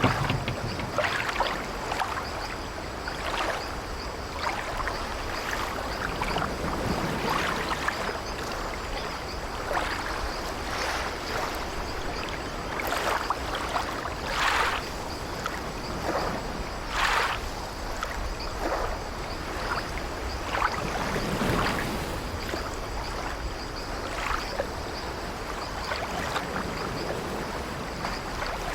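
Sea waves washing and splashing against an old wooden ship's hull, with light creaking of the ship's timbers. It is a steady wash with louder surges every second or two.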